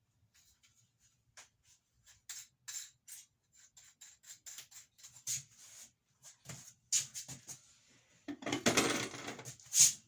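Plumbing parts being handled and fitted: a string of light clicks and knocks, then a longer scraping rub about eight seconds in that ends in a sharp knock.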